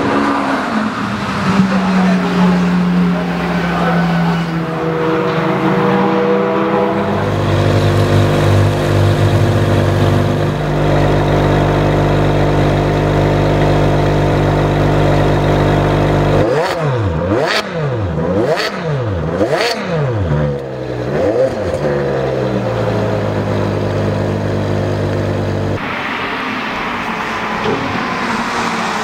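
Ferrari 599 GTO's 6.0-litre V12 idling, then blipped through a rapid burst of about four sharp revs about two-thirds of the way in before settling back to idle. Near the end the engine is heard more distantly as the car runs on the track.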